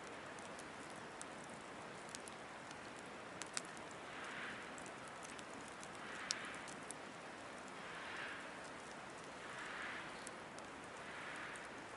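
Wood fire in a Picogrill 760 fire pit crackling, with sharp pops scattered through it. From about four seconds in, a soft rushing hiss swells and fades roughly every two seconds.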